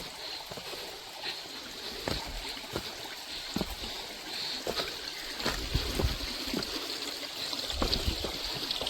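A stream running, with irregular knocks and footsteps on stones along a trail. A low rumble comes in near the end.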